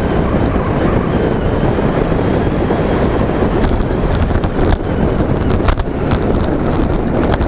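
Wind buffeting the microphone of a camera on a moving bicycle, with raindrops ticking on the helmet and camera. The ticks come more often from about halfway through, as the rain comes on hard.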